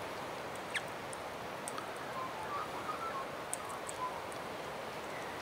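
Faint bird calls over a steady hiss of outdoor background noise: a short falling note about a second in, then a few soft short chirps.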